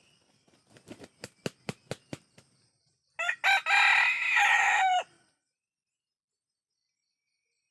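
An ayam kampung (Indonesian village chicken) rooster crows once, a loud call of about two seconds that ends on a falling note. It follows a quick run of about eight sharp claps.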